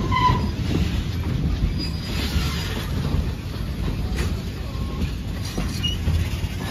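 Narrow-gauge passenger cars rolling past at close range: a steady rumble of wheels on the rails, with a few brief high squeals.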